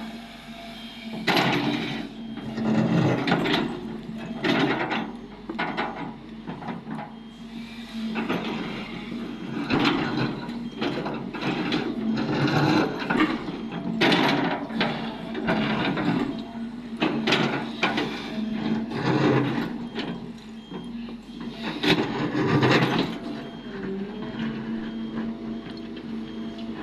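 Cat 330D excavator running steadily while loading rock, with repeated irregular bursts of scraping and rock clattering as the bucket digs and dumps.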